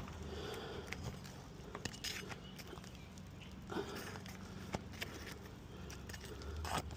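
Scattered light scrapes, taps and crinkling of hands and tools working on asphalt roof shingles, over a steady low hum.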